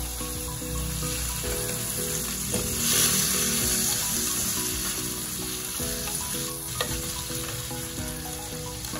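Sliced raw chicken breast sizzling in hot melted butter in a nonstick pan as it is stirred with a slotted spatula. The sizzle swells about three seconds in, with a few clicks of the spatula against the pan.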